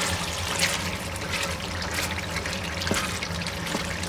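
Tomato paste frying in oil in a stew pot: a steady crackling sizzle with a few sharper ticks. A low steady hum runs underneath.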